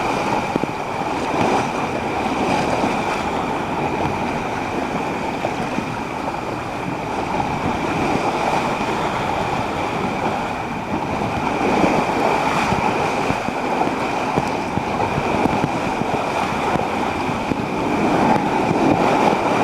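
Steady rush of splashing, churning water, with a thin steady high tone running over it.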